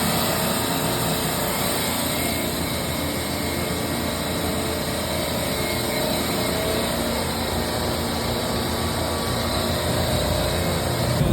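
Drain-cleaning cable machine running steadily, its motor and spinning snake cable making a continuous whir.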